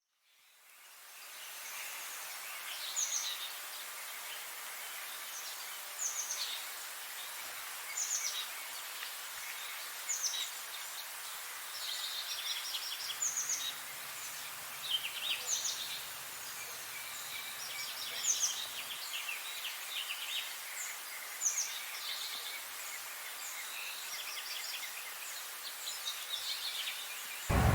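Songbirds singing and chirping over a steady outdoor hiss, with short high-pitched phrases repeating every couple of seconds. The ambience fades in at the start. Near the end a much louder sound with a deep rumble cuts in suddenly.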